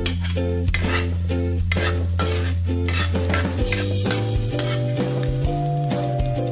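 Sliced shallots and garlic sizzling in hot oil in a steel wok, stirred with a utensil that scrapes and clicks against the metal. Background music with repeating chords plays throughout.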